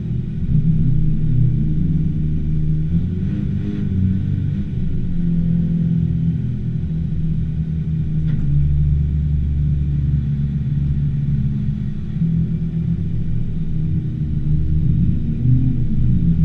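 Nissan Skyline R34 GT-R engine running on track, its low note rising and falling with the throttle.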